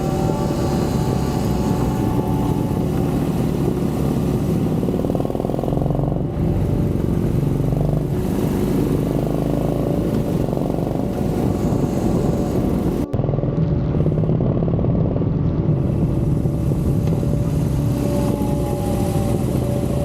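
Harley-Davidson Dyna's air-cooled V-twin engine running steadily while the motorcycle is ridden, with a brief break about two-thirds of the way through.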